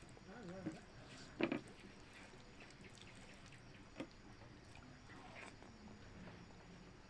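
Faint wet eating sounds: a few short smacks and clicks of chewing, the loudest about one and a half seconds in.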